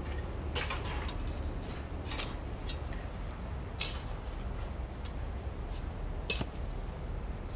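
Scattered metallic clinks and knocks of steel tools and parts being handled during work on a railway switch. The two sharpest strikes come near the middle and near the end, over a steady low rumble.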